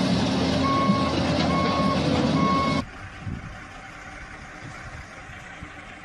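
A heavy vehicle's reversing alarm beeping three times, less than a second apart, over a loud running engine. A little before halfway, the sound cuts off suddenly to a much quieter background.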